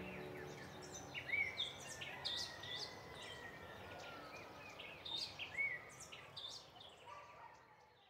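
Birdsong: short chirps and whistled notes, some gliding in pitch, over a faint steady hiss, fading out near the end.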